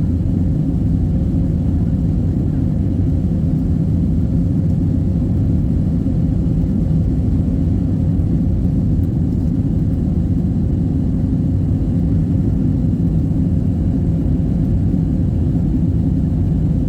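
Steady low rumble inside an Airbus airliner's cabin as it climbs after takeoff: engine drone and airflow, with a faint steady hum running through it.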